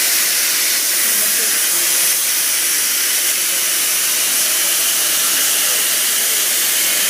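A loud, steady hiss, strongest in the high range, holding even throughout, with faint wavering tones underneath.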